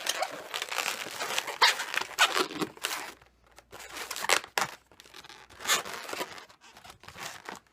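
Latex modelling balloons rubbing and squeaking against each other as they are twisted and pressed into place, busy for the first few seconds and then a few separate squeaks.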